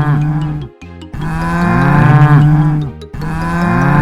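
Cow mooing: three long, low moos one after another, the first ending just under a second in and the next two each lasting nearly two seconds.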